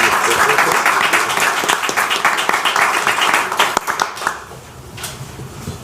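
Audience applauding, fading out a little past four seconds in.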